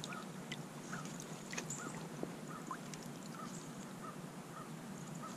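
Faint outdoor lakeside ambience: a bird calls over and over in short notes at uneven spacing, and there are a few light clicks.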